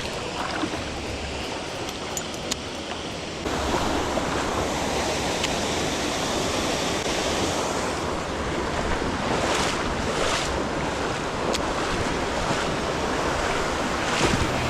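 Steady rush of flowing stream water, growing louder about three and a half seconds in.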